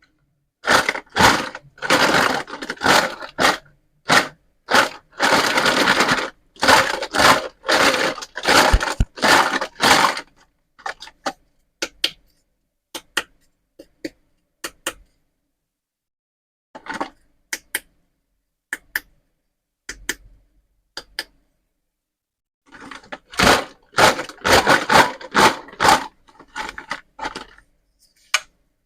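Plastic toy pizza and vegetable set being handled, with cracking, scraping and clicking. Two dense flurries come near the start and near the end, with scattered single clicks and taps between them.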